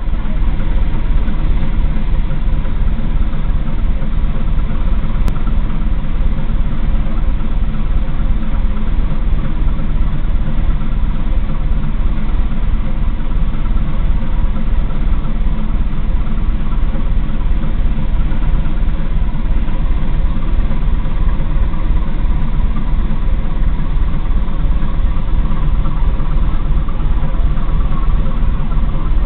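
A small ferry's diesel engine running steadily under way, a deep, even, fast throb with a steady hum above it.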